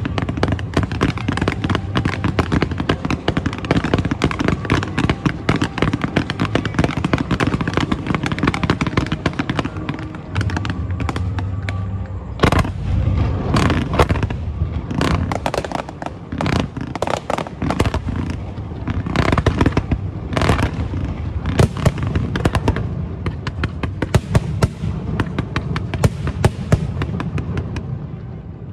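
Aerial fireworks going off in rapid, dense crackling, with bigger separate bangs from about halfway through.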